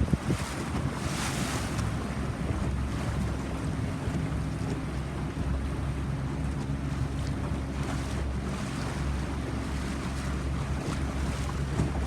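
A boat's engine running steadily under way, with wind buffeting the microphone and water rushing past the hull.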